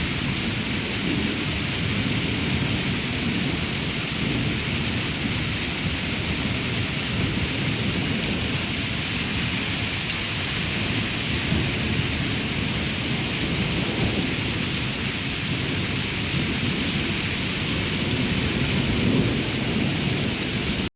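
Steady heavy rain falling on surfaces, with a low, uneven rumble beneath the hiss.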